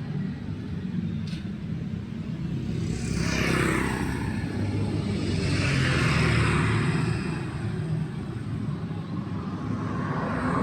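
Road traffic going by close at hand: a steady low rumble, with two vehicles passing, one about a third of the way in and one a little past halfway.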